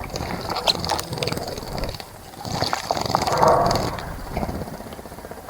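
Water splashing in a bird bath as a bird bathes, with scattered sharp drips and flicks and a louder stretch of splashing about three seconds in. Low wind rumble on the microphone underneath.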